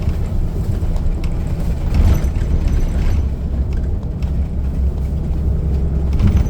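Steady low rumble of a transit bus's engine and road noise, heard from inside the passenger cabin.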